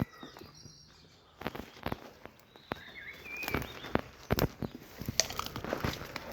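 Footsteps on a path, irregular, with short bird calls.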